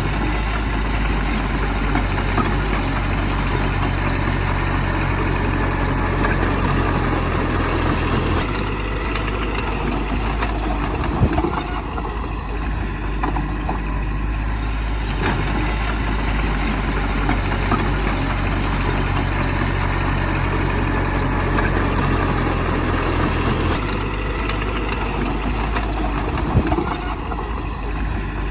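Bulldozer's heavy diesel engine running under changing load, its note shifting in two cycles about fifteen seconds apart, with a sharp clank about eleven seconds in and another near the end.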